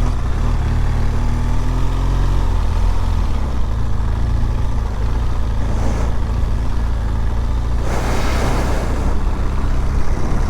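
BMW R1200GS boxer-twin engine running as the motorcycle is ridden along a rough dirt track, heard from the helmet. Its pitch rises gently in the first couple of seconds, with bursts of hiss about six seconds in and again about eight seconds in.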